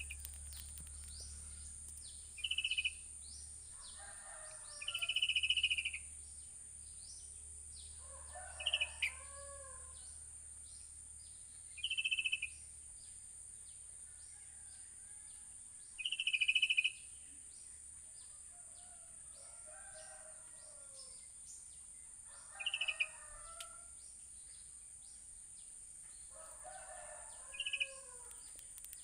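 Sooty-headed bulbuls (kutilang) singing: short, bright, loud calls every few seconds, some of them close to lower warbling phrases about a second long. Under them runs a steady high-pitched insect drone.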